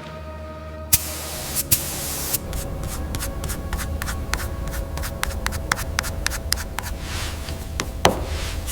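Paint spray gun hissing as paint is sprayed on, with many sharp clicks over a steady low rumble.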